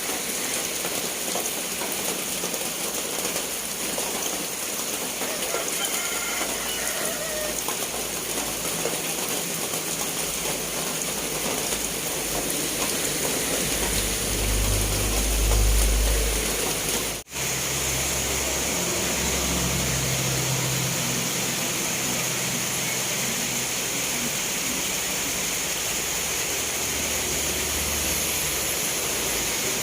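Steady heavy rain, a continuous even hiss of falling water. A low rumble swells about halfway through, and a moment later the sound breaks off for an instant, like a cut in the recording, before the rain carries on.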